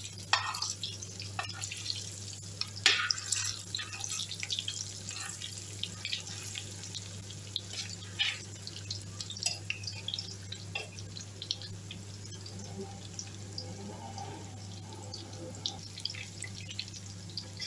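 Ground egusi (melon seed) paste frying dry in hot palm oil in a stainless steel pot: a steady crackle of irregular small pops and spits, with a few sharper clicks of a metal spoon against the paste and pot, over a steady low hum.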